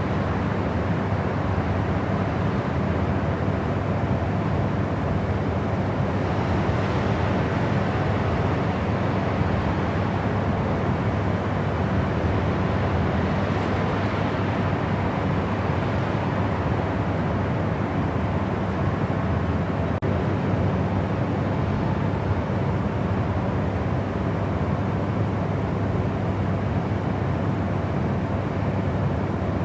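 Steady white noise for sleep, a deep, even rush with little hiss at the top and no breaks or changes.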